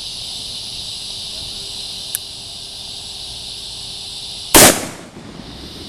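A single gunshot from a .50 AE Desert Eagle pistol about four and a half seconds in, loud and sharp with a short echoing tail. The pistol is fired while a hand grips the slide, so the slide is held back from cycling and the spent case is not ejected. A faint click comes about two seconds in.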